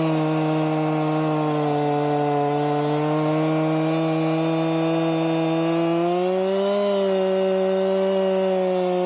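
Two-stroke chainsaw running steadily under load while ripping lengthwise through a log in a chainsaw mill. Its pitch sags slightly about two seconds in, then rises around six seconds in and holds there.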